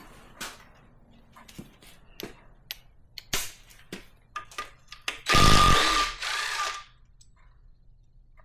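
Handheld power driver, such as a cordless drill or electric ratchet, spinning the front-cover studs out of a Ford 5.4 2V V8. It runs in two short bursts with a steady whine, about five and six seconds in. Before that come light metal clinks of the socket and tools being handled.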